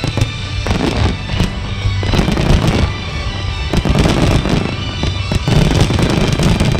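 Fireworks bursting in a dense, continuous run of crackles and booms, over a song playing at the same time.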